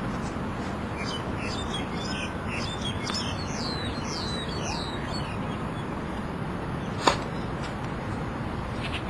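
A songbird chirping rapidly, a string of short notes falling in pitch, for the first few seconds over steady background noise. Then a single sharp tennis-ball impact about seven seconds in.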